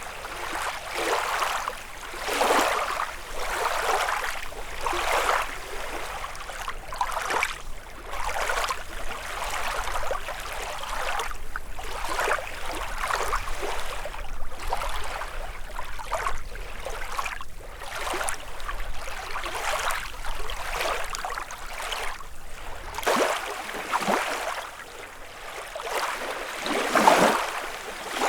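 Small lake waves lapping and splashing against the shore in a quick, uneven series of washes about a second apart, with one louder splash near the end.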